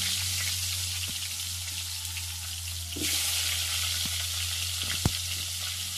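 Potato pieces frying in hot mustard oil in a steel kadai, a steady sizzle that grows louder about three seconds in as more pieces go into the oil. A sharp click about five seconds in.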